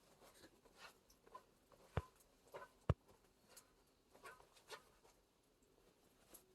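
Faint crackling and scratchy ticks from the final pan-firing of tea leaves in a wood-fired iron cauldron, with two sharp pops about a second apart near the middle.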